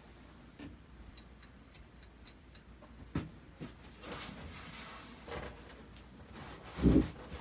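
1983 Hunter Reverse-Air ceiling fan running quietly on medium speed, with a run of light ticks in the first few seconds and a single loud thump near the end.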